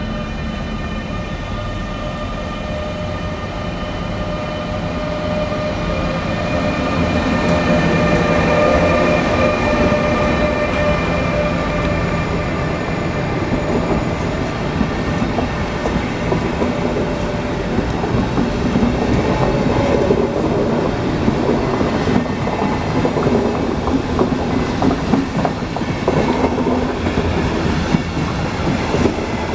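An Intercity train hauled by a black Siemens Taurus electric locomotive rolls past. The locomotive's steady whine in several tones is heard for about the first ten seconds, then the coaches pass with a rolling rumble and rapid wheel clatter over the rail joints. It gets louder about six seconds in and stays loud.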